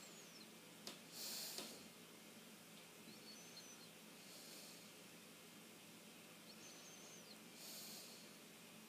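Very faint, steady hum and hiss of a 42-inch GE ceiling fan running. A faint high chirp recurs about every three and a half seconds, and there are two short breathy hisses, about a second in and near the end.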